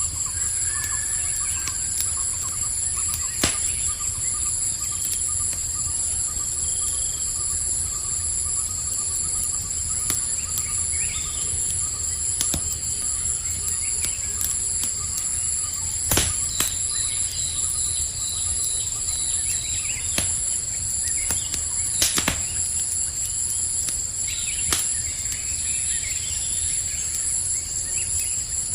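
Campfire crackling, with sharp pops every few seconds, over a steady high chorus of crickets and a few faint bird chirps.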